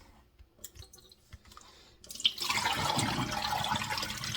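Running water, starting about two seconds in and then flowing steadily, after a few faint clicks and knocks.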